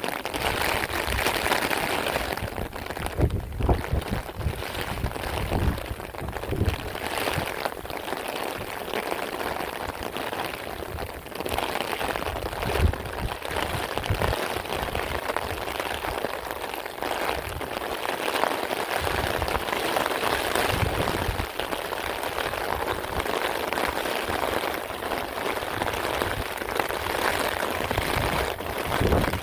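Heavy rain in a windstorm, with gusts of wind buffeting the microphone in uneven low rumbles that come and go.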